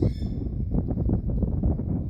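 A short bird call with several stacked high tones, lasting about half a second at the start, over a louder, steady low rumbling noise with irregular knocks.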